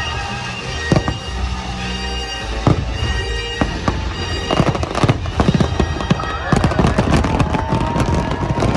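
Fireworks bursting, a string of sharp bangs over the show's music soundtrack, thickening into dense crackling about six and a half seconds in.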